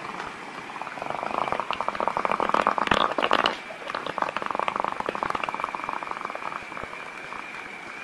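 A baby's long, rattling fart: a fast run of pulses lasting a few seconds, loudest near the middle, then a second, weaker stretch.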